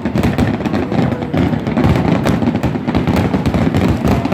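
Aerial fireworks going off in a dense, near-continuous barrage: many shell bursts and crackling reports in quick succession over a low rumble.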